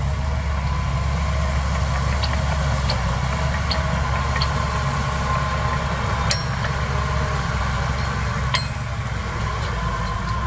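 Heavy diesel earthmoving machine's engine running steadily at low revs. Four light metallic ticks come in the first half, then two sharper metal clanks follow, one about six seconds in and one near the end.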